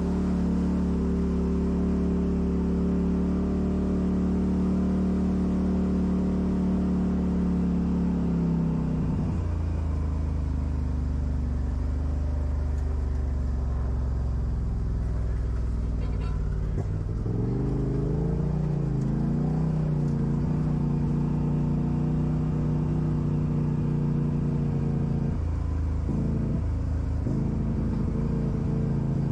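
Off-road vehicle engine running at steady low revs. It drops to a lower idle about nine seconds in, then picks back up about eight seconds later, with small rises and falls in pitch.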